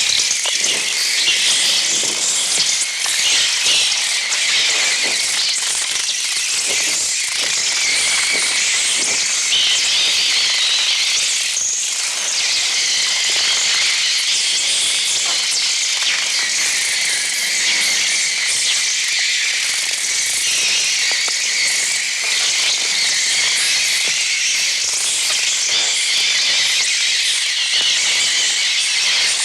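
A swarm of sparrows shrieking and chirping in a dense, unbroken high-pitched chatter with crackling flutter of wings. These are the film's stylised bird sound effects, made largely with an electronic Mixtur-Trautonium rather than recorded birds.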